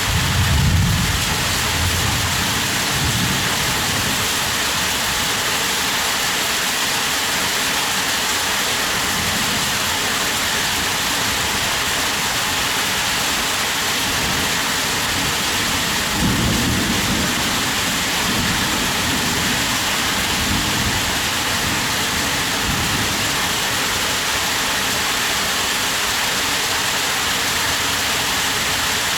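Heavy rain falling in a steady hiss, with two low rumbles of thunder, one at the very start and one about sixteen seconds in.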